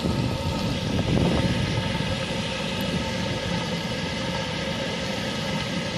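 Steady hum of running machinery, several even tones over a low rushing rumble, unchanging throughout.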